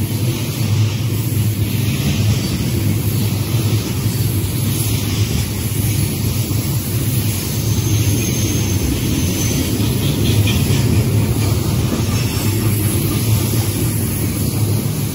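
Freight train tank cars rolling past close by: a steady, loud rumble of steel wheels on the rails.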